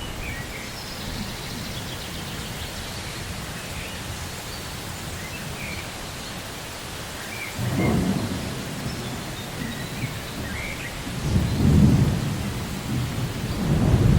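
Rainforest thunderstorm: steady rain with low rolls of thunder, the first building about halfway through and a louder one near the end, and faint bird chirps over the rain, mostly in the first half.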